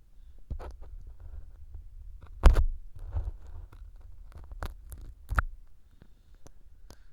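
Ear pick scraping and tapping inside a silicone ear fitted with a binaural microphone, picking out crumbs of floral foam used as fake earwax: scattered clicks and scratchy rustles, with the loudest knocks about two and a half and five and a half seconds in.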